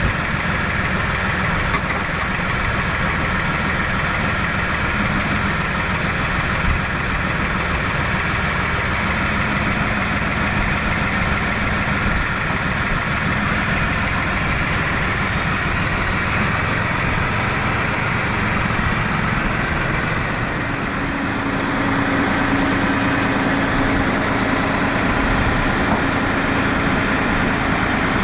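A heavy engine running steadily. About two-thirds of the way in, a steady hum joins it and the sound grows slightly louder.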